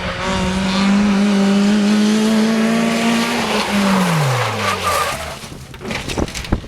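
Rally car at full throttle: one loud engine note held high for about three seconds, then dropping steeply in pitch and fading as the car lifts off and goes away. A few sharp cracks come near the end.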